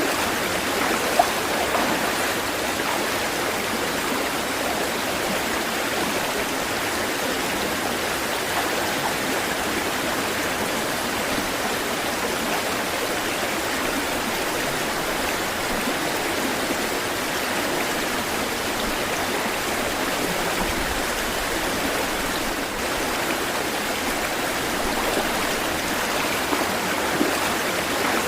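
Running water rushing steadily and continuously, like a stream or small cascade, with no rise and fall of waves.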